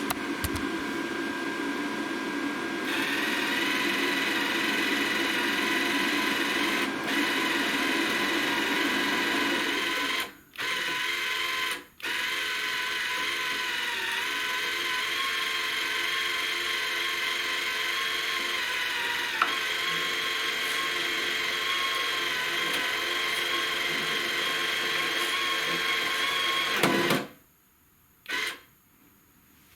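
Small electric motor in a Stahlwerk Flux 160 ST flux-core welder, most likely the wire feed motor pushing wire through the torch, running steadily. It stops twice for a moment and cuts off about three seconds before the end.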